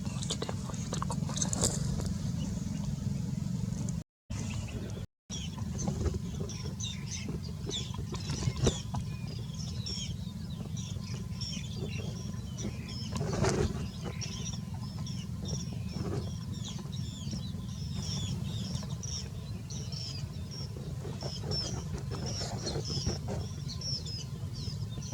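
Many small birds chirping in quick, high, short calls over a steady low rumble. The sound cuts out twice briefly about four seconds in.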